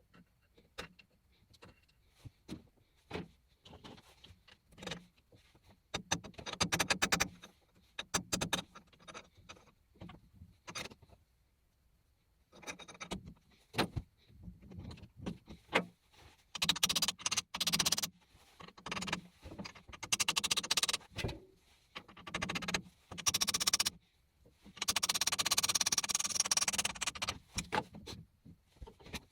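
Irregular clicks, knocks and clatter of objects being handled, with about two and a half seconds of continuous scraping or brushing noise near the end.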